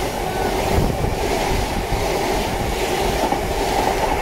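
Midland Pullman HST coaches passing close by, a steady, loud rumble of wheels and bogies running over the rails.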